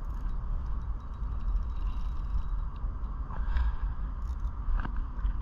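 Spinning reel and line being worked while a big bass is fought on light line: a steady scraping whir with a few small clicks.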